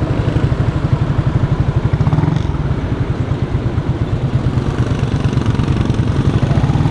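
Chopper-style motorcycle engine idling with a steady, fast, even pulse.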